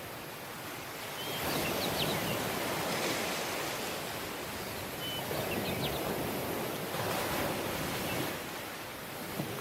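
Surf washing onto a tropical beach, swelling and easing back about three times, with a few faint bird chirps.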